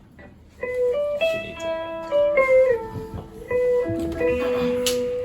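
Electric guitar playing a slow line of single held notes after a brief quiet start, with one note sliding down midway through, a few sharp ticks near the end.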